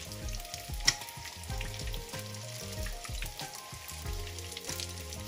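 Panko-breaded whiting fillets shallow-frying in hot oil: a steady sizzle with crackling pops, one louder pop about a second in. Background music with held low notes plays underneath.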